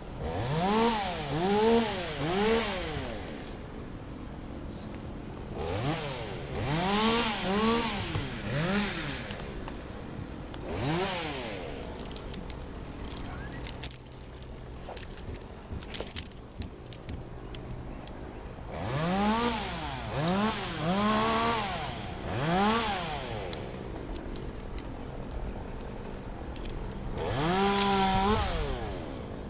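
Two-stroke chainsaw revved in short bursts, usually two to four quick rises and falls in pitch at a time, dropping back to idle between the groups. A few sharp clicks come in the quieter middle stretch.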